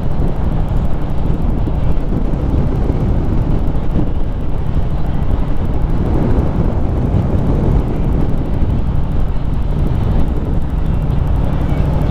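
Harley-Davidson Street Rod 750's V-twin engine running steadily while riding, with wind buffeting the microphone.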